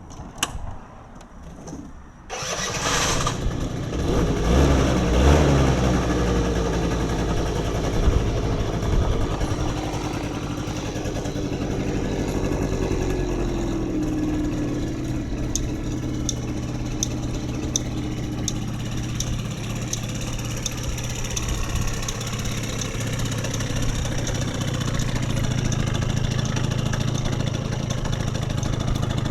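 Yamaha Vino (5AU) 50 cc two-stroke scooter engine catching about two seconds in, rising and falling in pitch for a few seconds, then settling into a steady idle.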